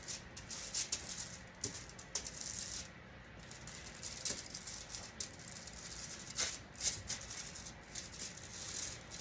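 Aluminum foil crinkling and crackling as butter is spread across it, in irregular rustling bursts with a few sharper crackles.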